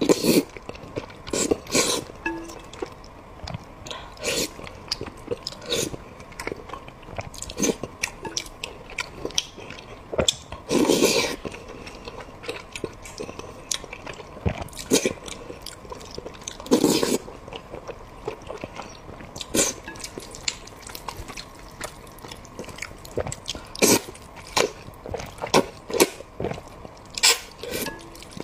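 Close-miked eating sounds: a person chewing braised pork with wet, sticky mouth clicks and smacks at an irregular pace. A few longer, louder wet squelches come about 11 and 17 seconds in.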